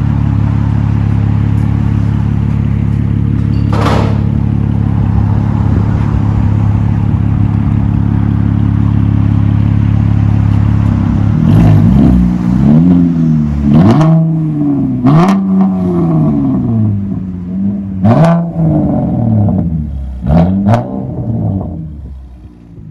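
Chevy Camaro 3.6-litre V6 with muffler and resonator deleted, X-pipe and true dual exhaust, idling steadily, then revved in about five quick blips, each rising and falling in pitch, before settling back down near the end.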